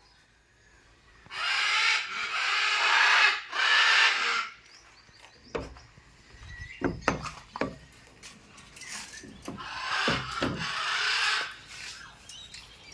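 Pet parrot giving harsh, rasping screeches in three bursts, with a run of sharp knocks and taps between the second and third.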